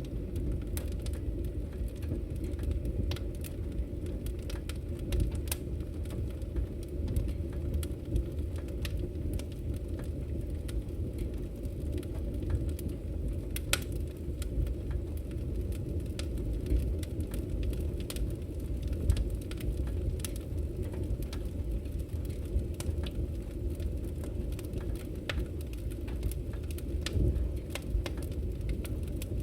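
Firewood burning in a camping wood stove: a steady low rumble of the fire with frequent sharp crackles and pops throughout.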